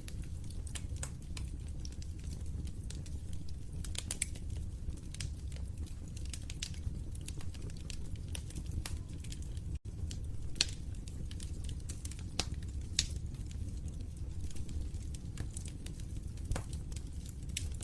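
Wood fire crackling: irregular sharp pops and snaps over a steady low rumble of the flames. The sound cuts out for an instant about ten seconds in.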